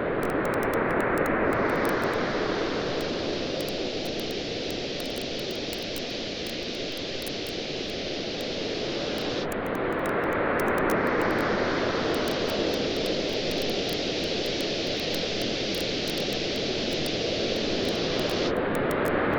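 Campfire crackling with scattered small pops over a steady wash of surf, the waves swelling about every nine seconds.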